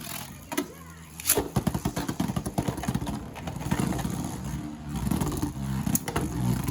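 Beyblade spinning tops launched into a stadium: a couple of sharp clacks, then a rapid clattering of the tops knocking together, settling into a steady spinning whir.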